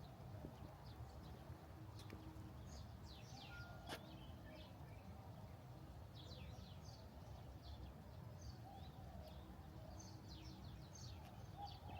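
Small birds chirping faintly in short bouts of quick, high, downward-sweeping notes, over a steady low background murmur.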